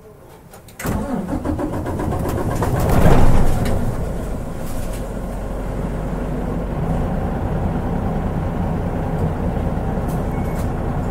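Mitsubishi Fuso Aero Star bus's 6M70 turbocharged diesel engine starting about a second in, flaring up briefly around three seconds, then settling into a steady idle.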